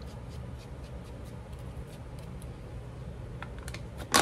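Faint taps and rustles of hands inking a paper doily on a craft table, over a low steady hum, with one sharp clack near the end.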